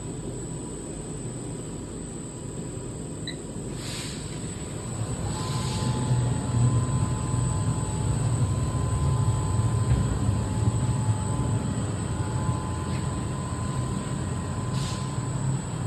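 Automatic horizontal foam block cutting machine running with a steady low hum that grows louder about five seconds in, when a faint steady whine also starts.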